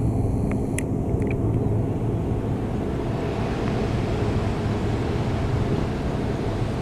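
Train of fuel tank wagons rolling past: a steady low rumble of wheels on rails, with a few sharp clicks in the first second and a half.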